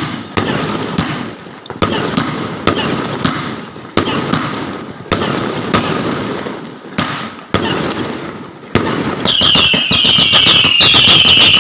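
Aerial fireworks going off in a string of loud bangs, roughly one every half second to a second, each trailing into a rumbling crackle. About nine seconds in, a loud shrill whistling joins, several high tones sliding slowly downward.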